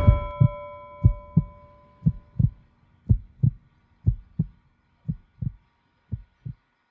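Heartbeat sound effect: paired lub-dub thumps about once a second, growing fainter toward the end. A bell struck just before rings out and dies away over the first two seconds.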